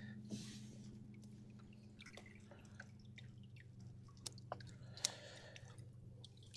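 Faint scattered clicks and ticks, with a few sharper clicks about four to five seconds in, over a low steady hum.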